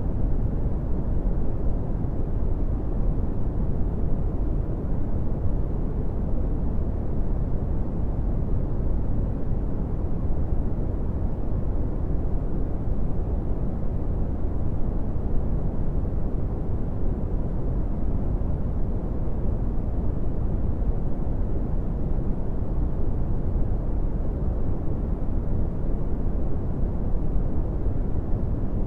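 Brown noise: a steady, deep rumbling hiss, strongest in the lows and falling away in the highs, with no change throughout.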